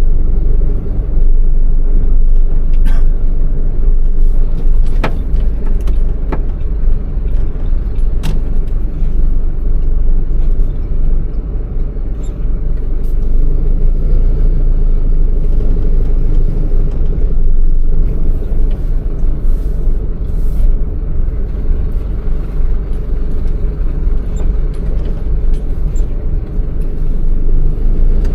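MAN truck's diesel engine running with a steady low rumble, with a few sharp clicks or rattles in the first several seconds.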